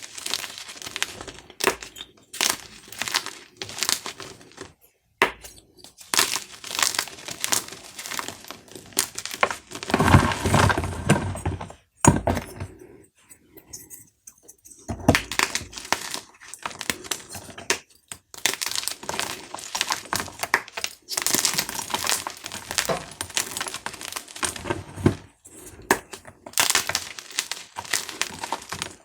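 Dyed gym chalk cubes being crushed, crunching and crumbling in dense crackly bursts, with a louder stretch about ten seconds in followed by a brief lull.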